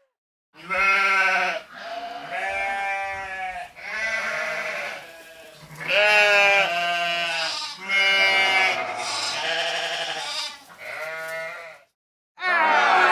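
Animal bleating: a string of about eight wavering calls with short gaps between them.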